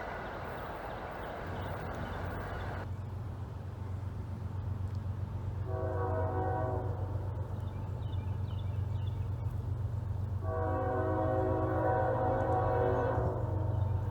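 Train's multi-tone air horn sounding twice, a short blast and then a longer one, over the steady low rumble of the approaching train, which grows louder.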